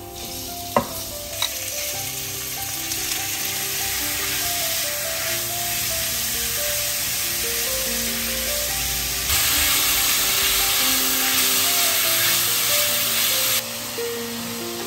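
Sliced meat frying in a hot oiled pan with onions, sizzling steadily as it goes in and is stirred with chopsticks. There are two sharp clicks about a second in. A louder stretch of sizzling in the second half cuts off suddenly.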